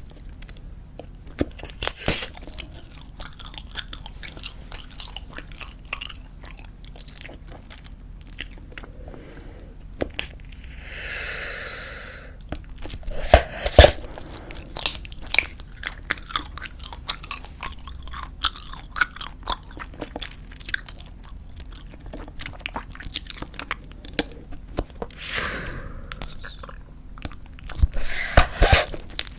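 Close-miked chewing of squeeze-tube bubblegum: a steady run of wet smacks and clicks, with a few louder snaps about halfway through and near the end.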